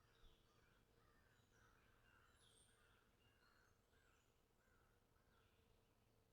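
Near silence, with faint bird calls repeating a few times a second and one small click just after the start.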